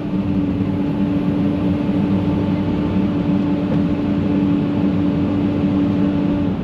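Heavy diesel equipment engine running steadily under load, a constant hum over a dense rumble, which drops away near the end.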